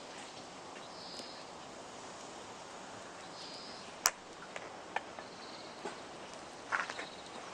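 Wood campfire burning with sparse crackles: one sharp loud pop about four seconds in, then a few smaller snaps and a quick cluster of crackles near the end.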